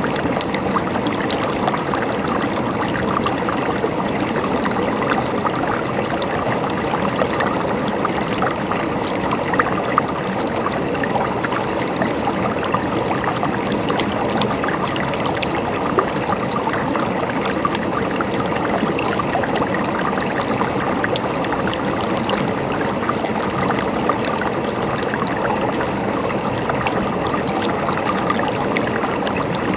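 A small stream running and trickling over stones, a steady babble of water with many small splashes.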